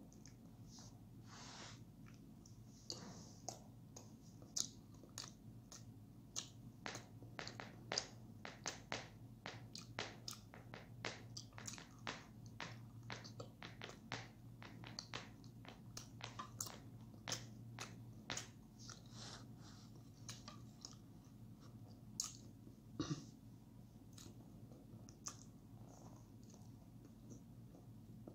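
Someone chewing cake, with faint irregular mouth clicks and smacks, about two a second at first and sparser for the last several seconds.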